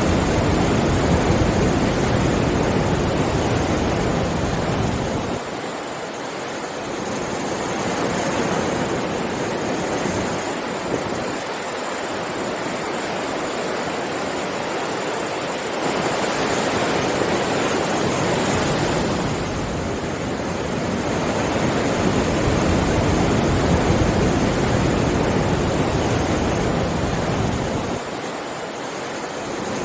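Sea waves on a shore: a continuous rush of surf that swells and eases every several seconds as waves break and draw back.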